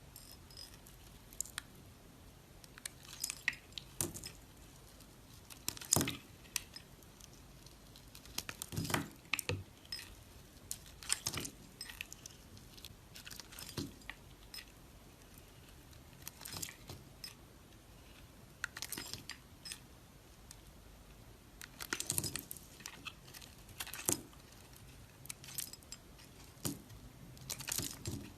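Knife cutting dry soap: irregular crisp crunches and scrapes, with the loudest cuts about six and nine seconds in and around twenty-two and twenty-eight seconds.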